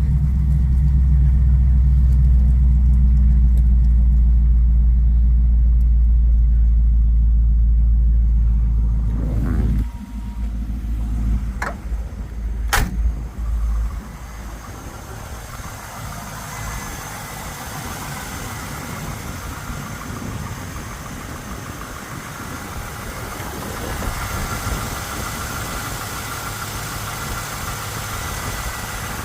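A 5.7L LS1 V8 idling steadily through dual Magnaflow mufflers, loud and deep for about the first ten seconds. It then becomes much quieter, with two sharp knocks a second apart, and a lower steady running sound follows.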